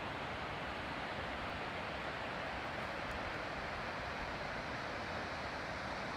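Steady rushing noise of fast-flowing water from a mountain creek, even and unbroken.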